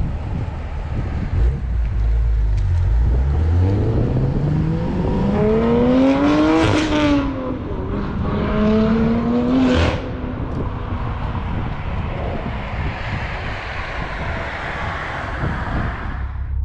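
BMW M2 Competition's twin-turbo straight-six, fitted with an equal-length midpipe and an Active Autowerke axle-back exhaust, accelerating hard. Its pitch rises through one gear, shifts up about seven seconds in, climbs again and shifts about ten seconds in, then the engine eases off under heavy wind rumble.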